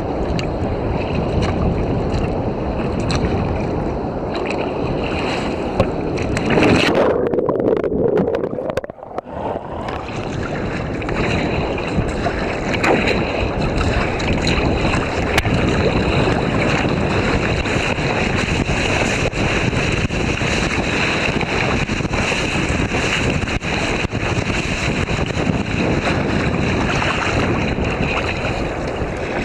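Wind buffeting the microphone over waves breaking and water splashing around a kayak in the surf. About seven seconds in the sound turns muffled, then drops out briefly before the wind and surf return.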